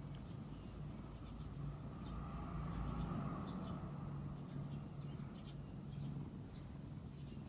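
Quiet outdoor background: a steady low hum with faint, short bird chirps scattered throughout.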